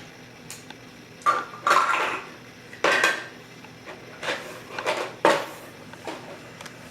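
Hard items clacking and knocking together as they are handled, about eight sharp clacks in irregular clusters, a few with a short ringing tone like crockery or cutlery.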